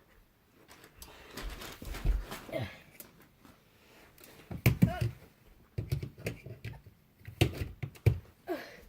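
Scattered knocks, thumps and clatter of objects being handled and moved about a small room, with a few short voice-like sounds between them.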